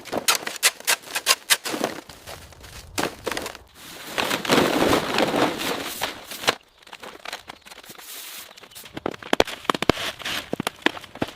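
Bricklaying work: many quick, irregular knocks and clicks of a trowel and bricks tapping, with a stretch of scraping in the middle.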